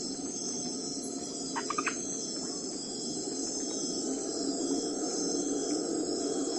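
Crickets chirring steadily over a steady low background rumble, with a short run of three or four quick chirps about a second and a half in.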